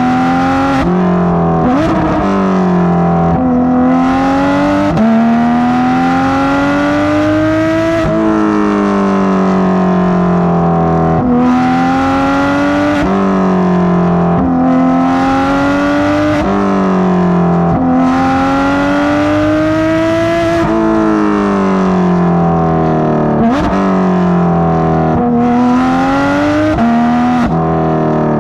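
Porsche 991.2 GT3 RS flat-six with Dundon street headers and Crack Pipe exhaust, driven hard: the exhaust note climbs steadily in pitch, then drops sharply at each shift, over and over, with some stretches falling off as it slows.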